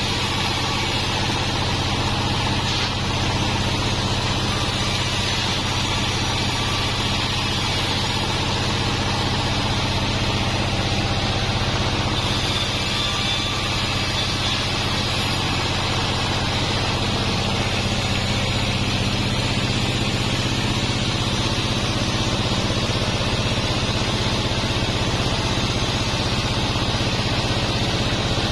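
Large sawmill band saw running steadily, a constant low machine hum with a hiss of blade and drive noise above it.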